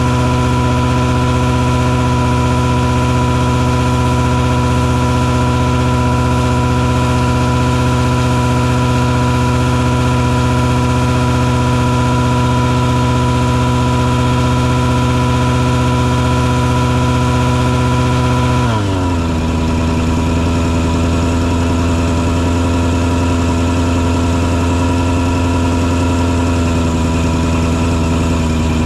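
Engine on a mosquito-fogging truck running at a steady speed, then slowing to a lower, steady speed about 19 seconds in.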